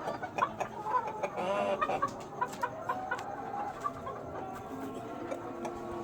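Light Sussex chickens clucking: a run of short, pitched calls, a few each second.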